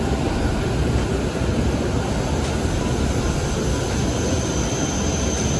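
Joetsu Shinkansen train running slowly into the station with a steady low rumble, mixed with the rushing hiss of the trackside snow-melting sprinklers spraying groundwater onto the tracks.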